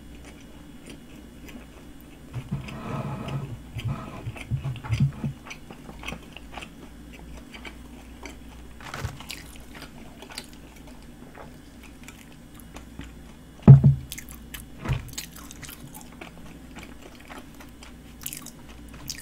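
Close-up chewing of a fried mini glutinous-rice donut, crispy and cinnamon-sugared, with wet mouth clicks throughout. The chewing is louder from about two to five seconds in, and two short thumps come past the middle.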